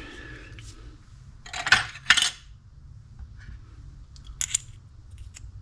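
Small metal fishing-reel parts clinking against each other and a hard surface as they are picked up and handled: two sharp, ringing clinks about two seconds in, and lighter clicks near the end.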